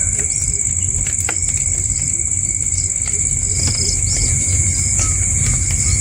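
Short, faint bird chirps over a steady high-pitched hum and a low rumble.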